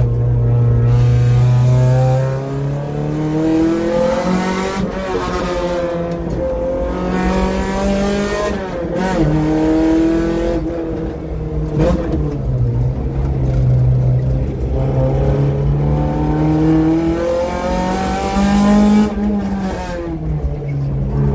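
Nissan Pulsar race car engine under hard acceleration, heard from inside the cabin. The engine note climbs steadily, then drops back sharply at each gear change or lift, several times over.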